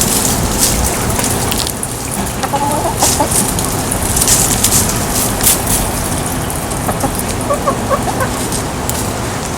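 Chickens clucking in short calls, about two and a half seconds in and again near eight seconds, over a steady rushing hiss.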